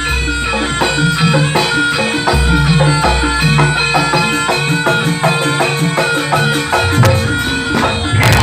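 Javanese gamelan-style barongan accompaniment music: fast, evenly spaced drum and percussion strokes over ringing metallophone tones, with a deep bass that drops in and out.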